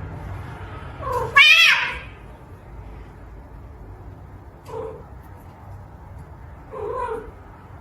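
Domestic cat meowing: a loud, wavering meow about a second and a half in, then two shorter meows a few seconds apart.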